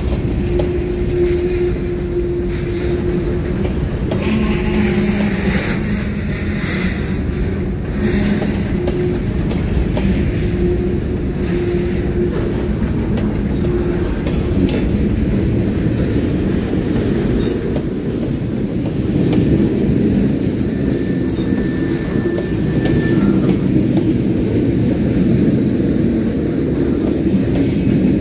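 Freight train cars rolling past at a grade crossing: covered hoppers giving way to empty steel gondolas, with a steady low rumble and clatter of wheels on rail. Brief high-pitched wheel squeals come twice, about two-thirds of the way through.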